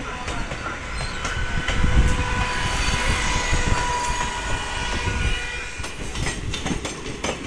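Running noise of a moving train heard from aboard an ICF passenger coach: wheels rumbling and clattering on the rails. A thin steady wheel squeal sounds through the middle, and a quick run of clacks over rail joints or points comes near the end.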